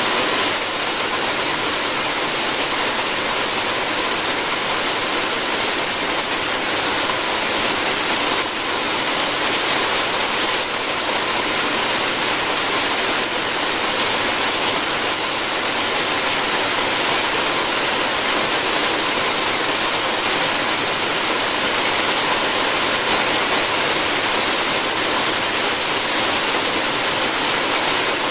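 Steady, dense rain falling on a roof, an even hiss without pause.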